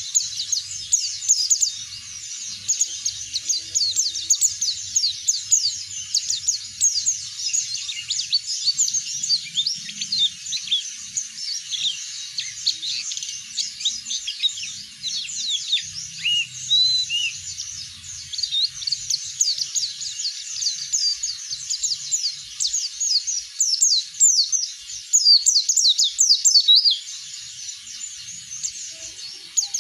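A white-eye (pleci) singing a long, unbroken song of rapid high twittering notes. Now and then it drops in a clearer whistled note. This is the kind of sustained song used as a lure recording to get other white-eyes singing.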